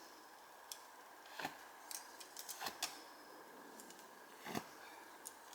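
Arrows being handled and cleared away: a faint, irregular series of light clicks and knocks, about eight in all, several bunched together near the middle.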